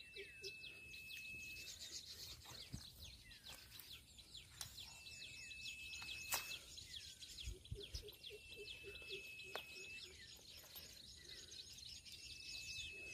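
Faint outdoor birdsong: a level, high whistled note about a second and a half long repeats four times, every three to four seconds, among short falling chirps.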